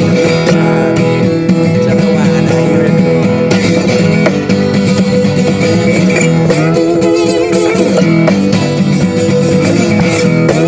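Guitar strummed and picked through a blues-style instrumental passage with no singing.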